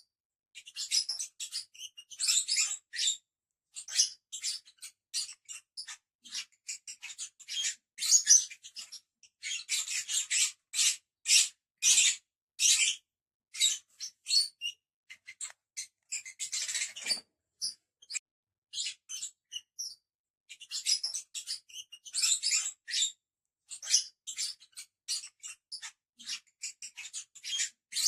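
Lovebirds chattering: rapid, irregular runs of short, high-pitched chirps and squeaks, broken by brief pauses.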